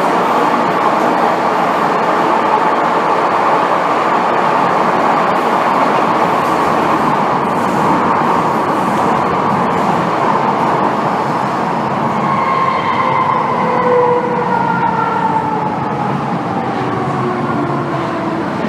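Inside an MTR M-Train car running on the track: a steady rush and rumble of wheels on rail. From about two-thirds of the way in, several whining tones slide slowly down in pitch as the train slows under braking.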